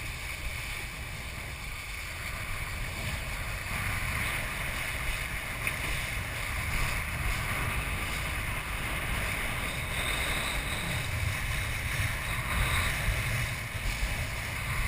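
Wind buffeting the camera microphone with a steady low rumble, over a constant hiss of water rushing past a kiteboard.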